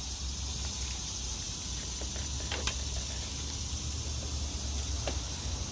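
Steady outdoor ambience: a high, even insect drone over a low rumble, with a couple of faint clicks.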